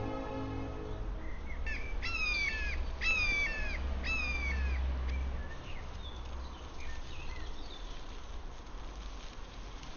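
A bird calling in a few harsh, crow-like caws about a second apart, each falling in pitch, followed by fainter calls. Background music fades out in the first second.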